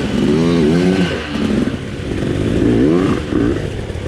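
Dirt bike engine revving up and down in short blips several times, its pitch rising and falling with each blip.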